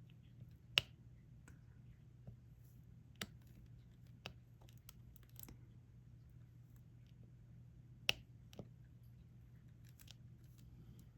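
Diamond painting stylus picking up resin drills and pressing them onto the sticky canvas: scattered small clicks and taps, two sharper ones about a second in and about eight seconds in, over a low steady hum.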